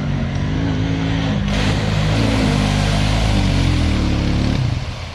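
ATV engine revving hard as the quad ploughs into a deep mud hole, its pitch rising and falling. Mud and water start splashing about a second and a half in. The engine note drops away near the end as the quad bogs down.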